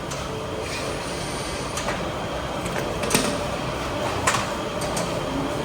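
Steady background vehicle noise with a few sharp clicks and knocks.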